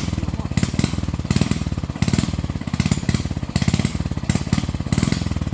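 Small petrol engine running hard with a fast, even pulse, surging up and down every half second or so.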